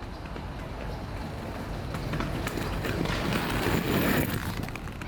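Inline skate wheels rolling over rough street pavement, a steady rumble scattered with small clicks and knocks that swells about three to four seconds in.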